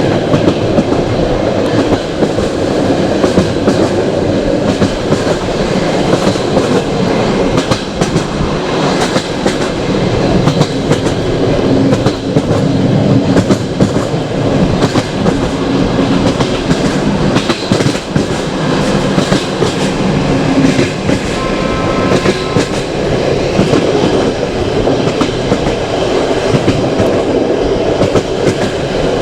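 Passenger train carriage rolling along the track: a steady, loud rumble of wheels on rails with irregular clicks and knocks as the wheels pass over rail joints.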